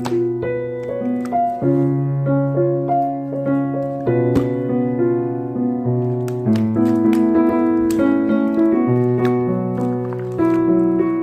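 Background piano music: a melody of many short notes over held bass notes, at a steady moderate pace.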